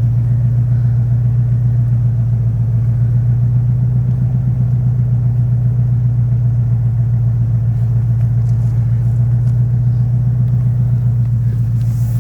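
A vehicle engine idling steadily: an even, unchanging low drone, with a few faint clicks near the end.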